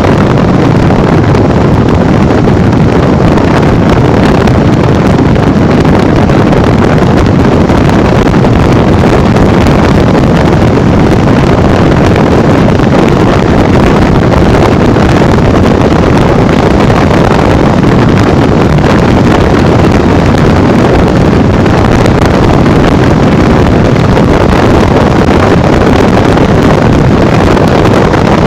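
Loud, steady wind rush buffeting the microphone while riding a Honda Bros 150 motorcycle at speed, with its single-cylinder engine running underneath.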